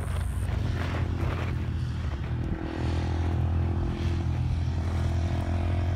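Jeep Wrangler's engine working steadily as it climbs a dirt hill, a low drone that gets a little louder about halfway through.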